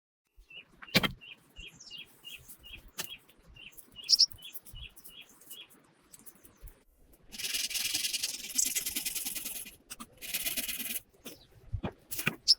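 A bird chirping in a quick even series, about four chirps a second, with a few sharp knocks among them. About halfway through comes a long, loud scratchy rasp, then a shorter one a second later.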